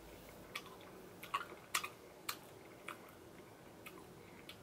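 Close-miked mouth sounds of someone eating a mouthful of ice cream cake: about ten faint, sharp wet clicks and smacks, scattered irregularly.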